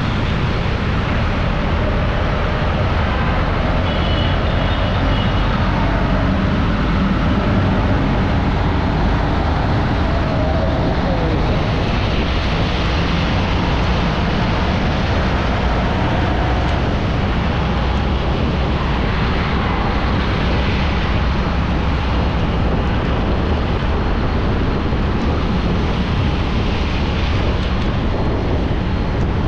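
Steady road and traffic noise of a car driving through city traffic, with a continuous low rumble and a few faint high tones about four to five seconds in.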